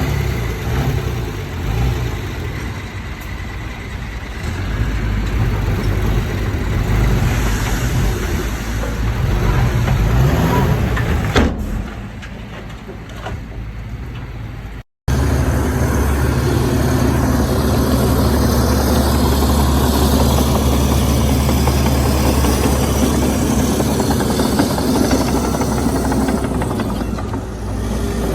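Heavy diesel engines of earthmoving machinery running under varying load, with some revving. After a brief dropout about halfway through, a steady, deep engine drone follows.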